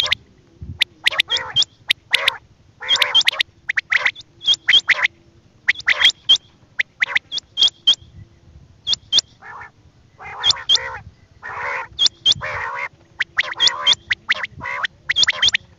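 Quail calling: short, sharp calls repeated in quick clusters of two to four, over a faint steady low hum.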